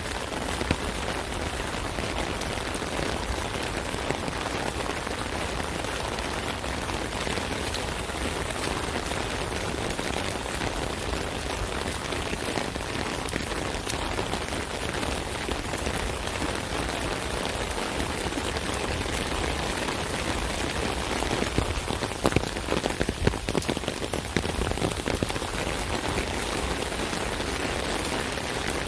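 Steady rain falling on an umbrella, a dense patter of drops on the canopy, with a spell of heavier, sharper drop hits about two-thirds of the way through.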